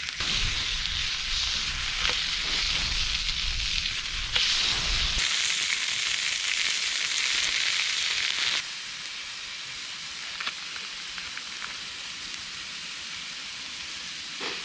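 Beef steak sizzling over a campfire: a steady frying hiss that steps up in loudness about four seconds in, then drops to a quieter sizzle with a few faint crackles at about eight and a half seconds.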